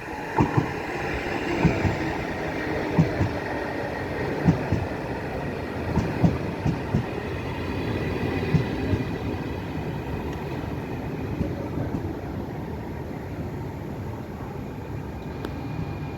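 A train running past on the track, its steady rumble broken by sharp wheel knocks over rail joints or points, thickest in the first half and easing off afterwards.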